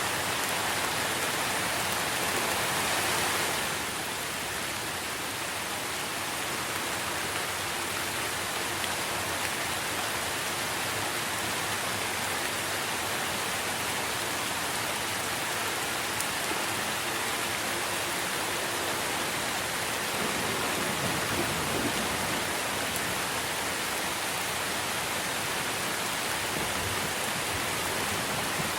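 Steady rain falling on trees and foliage, a little heavier for the first few seconds, then even.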